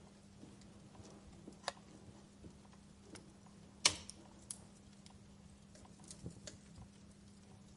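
Wood fire crackling: scattered sharp pops and snaps, the loudest about four seconds in, over a faint hiss and a low steady drone.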